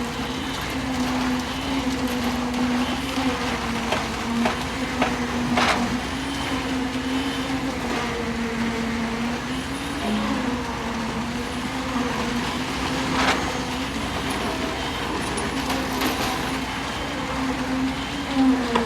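Concrete-pouring machinery running with a steady hum that wavers slightly in pitch, with a few sharp knocks.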